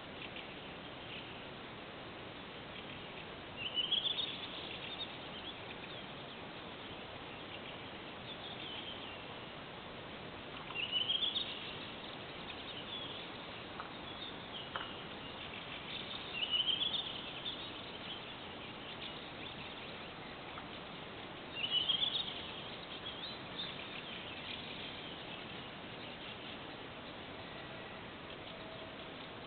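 A songbird repeating a short rising phrase about every five or six seconds, over a steady background hiss.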